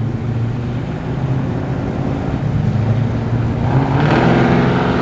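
Ford Falcon XT GT's V8 engine running at low revs, then revving up louder about three and a half seconds in as the car pulls away.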